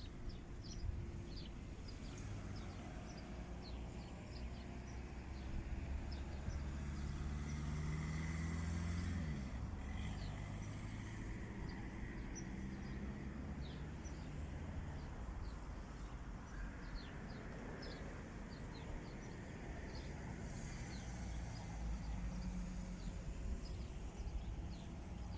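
Low engine hum of a passing motor vehicle, growing louder and then dropping in pitch about nine seconds in, with another fainter one near the end, while small birds chirp.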